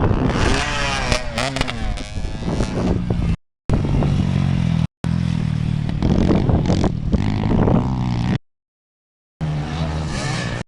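Off-road trail motorcycle engine revving up and down, in short clips that cut off abruptly with brief silent gaps between them.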